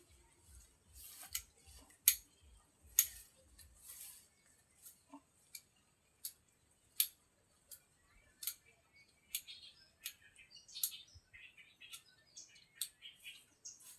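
A series of sharp, irregular clicks or snips, roughly one every half second to a second, over a faint steady high hiss.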